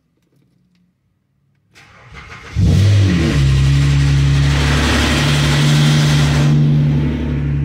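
Hyundai Azera 3.3 V6 cold-started: the starter cranks briefly, the engine catches, and a loud machine-gun rattle from the CVVT (variable valve timing) pulley runs for about four seconds, then stops, leaving a steady idle. The rattle comes at start-up after the car has sat long enough for the oil to drain down, which the owner says does no harm to the engine.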